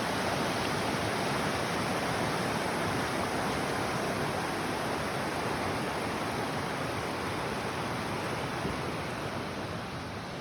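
Rushing water, a steady even rush with no breaks, easing off slightly near the end.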